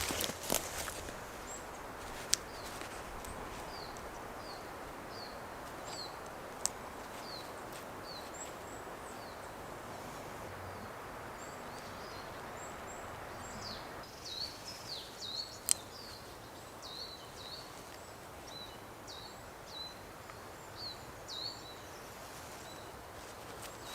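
Woodland birds chirping: a long run of short, high, falling chirps, one or two a second, coming closer together from about halfway through, over a steady outdoor hiss. A few sharp single clicks break in, the clearest near the middle.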